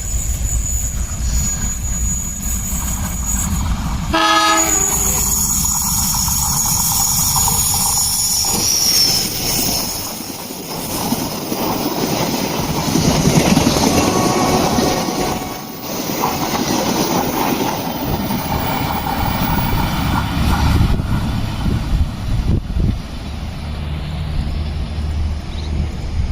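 Passenger train passing on a curve: a short horn blast about four seconds in, then wheels clattering over the rail joints and steady running noise as the carriages go by.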